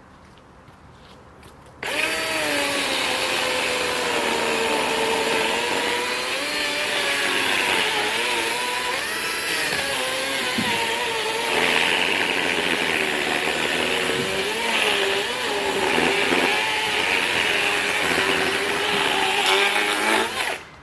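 DeWalt cordless electric chainsaw starting suddenly about two seconds in and cutting wood, its motor whine steady but wavering in pitch as the chain loads in the cut. It stops abruptly near the end.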